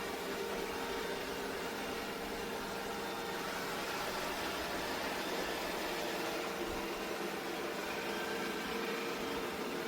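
Ecovacs Deebot X9 Pro robot vacuum running, a steady whir with a few faint steady tones.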